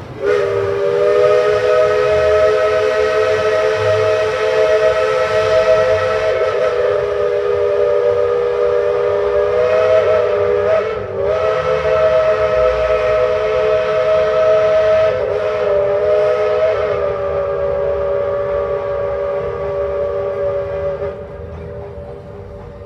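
Steam locomotive's chime whistle blown in one long sustained chord of several notes for about twenty seconds, briefly faltering about halfway through and then cutting off near the end.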